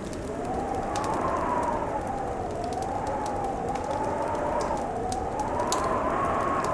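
Howling winter wind whose pitch slowly rises and falls in gusts, over a crackling wood fire with scattered sharp pops.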